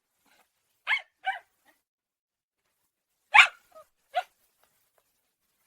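Puppies yapping: two quick barks about a second in, then two more a few seconds later.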